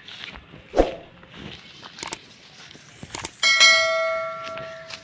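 A single struck metallic ring, bell-like, about three and a half seconds in, fading away over about a second and a half. A sharp thump just before the first second.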